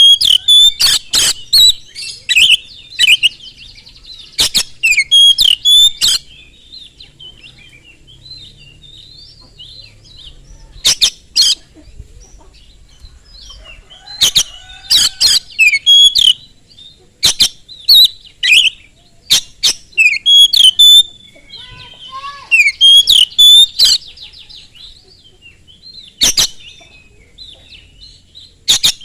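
Oriental magpie-robin singing loudly in bursts: sharp, harsh notes run together with short whistled phrases, with pauses of a few seconds between bursts.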